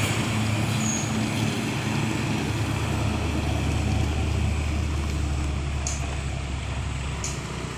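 Heavy diesel truck driving by on the road: a low steady engine drone with tyre and road noise, slowly fading as it moves away.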